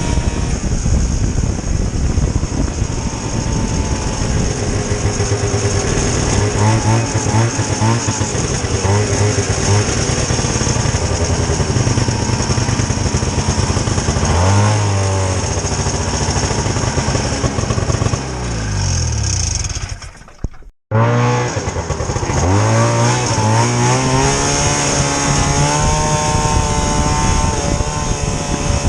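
A vintage snowmobile's small two-stroke engine running under way, its pitch rising and falling again and again as the throttle is worked. About two-thirds of the way through, the sound drops off and breaks for a moment, then the engine comes back in.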